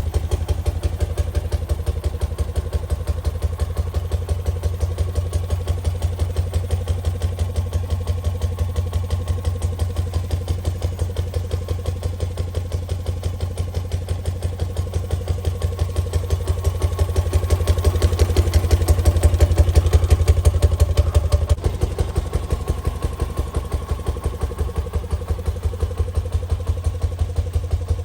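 1977 BMW R60/7's air-cooled flat-twin engine idling steadily through its exhaust, with an even pulsing beat. It grows louder for a few seconds past the middle, then settles back.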